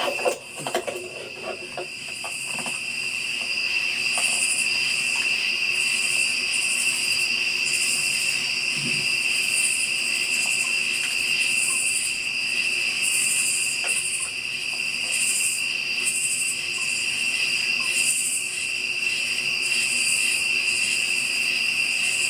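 Night chorus of crickets and other insects: a steady high trilling that never lets up, with a higher-pitched insect call pulsing on and off above it. A few knocks and rustles of handling sound in the first couple of seconds.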